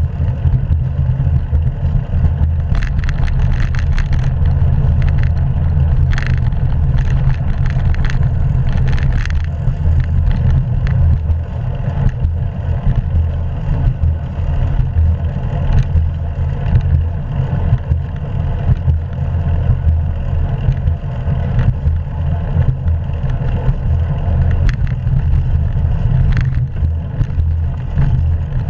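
Steady low rumble of wind and road noise on a bicycle-mounted action camera's microphone while riding, with a cluster of short knocks and rattles a few seconds in.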